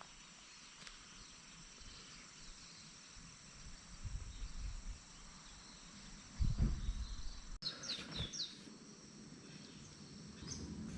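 Steady high-pitched trilling of insects outdoors, with a short run of bird chirps a little past the middle and a couple of low rumbles, the louder one about six and a half seconds in.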